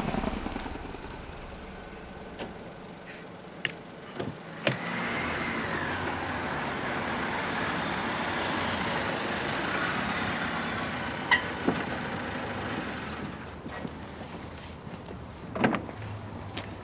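A road vehicle passing: its running noise swells over several seconds and then fades. A few sharp clicks and knocks fall before and after it.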